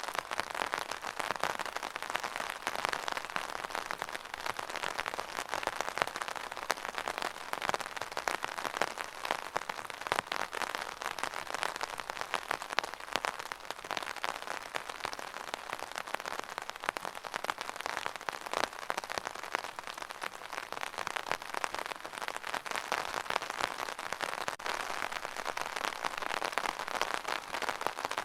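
Steady rain falling on a surface, a dense even hiss full of fine pattering drops.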